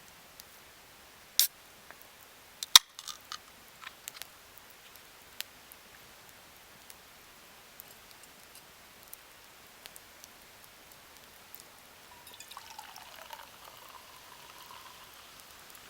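Wood campfire crackling: scattered sharp pops, two loud ones in the first three seconds, then smaller ticks. A faint hiss joins from about twelve seconds in.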